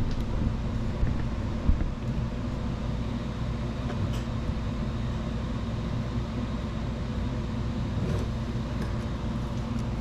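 Steady low mechanical hum, with a single sharp click a little under two seconds in.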